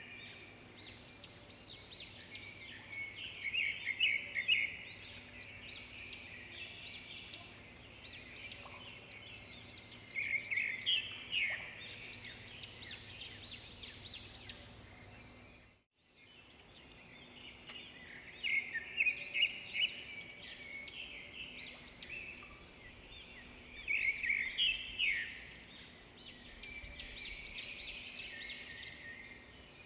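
Several birds chirping and singing, with dense bursts of short calls and trills, gapping briefly about halfway through as the sound fades out and back in.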